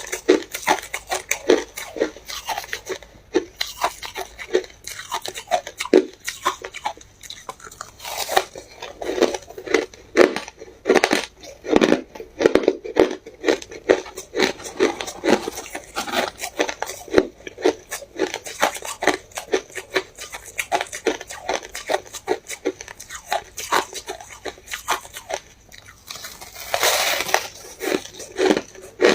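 Ice being bitten and chewed close to the microphone: rapid, irregular hard crunches, several a second, with one longer grinding crunch near the end.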